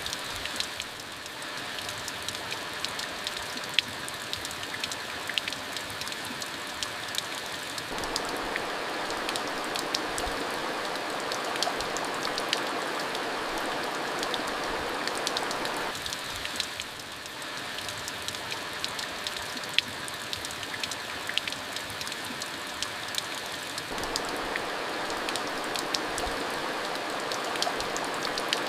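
Steady rain falling, an even hiss with many sharp individual drop hits ticking on a surface. The rain briefly eases about a second in and again about seventeen seconds in.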